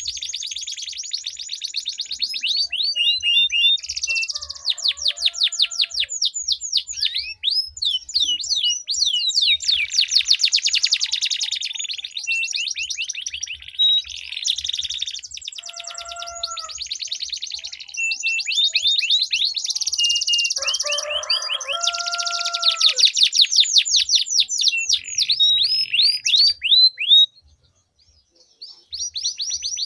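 Domestic canaries singing long rolling trills, fast runs of rapidly repeated high notes, one phrase straight after another, with a brief pause near the end.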